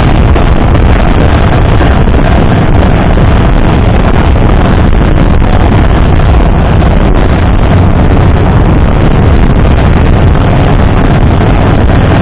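Wind buffeting the microphone of a moving bike's camera: a loud, steady rumble with no breaks.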